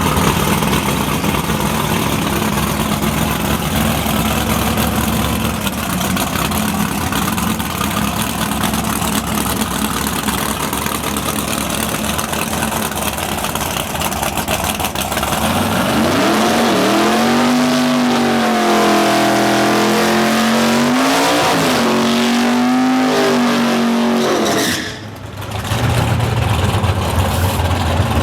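Outlaw Super Stock drag car's engine running steadily, then from about halfway its pitch climbs and falls in several swells as it revs. It drops out abruptly near the end, and a lower, steady idle follows.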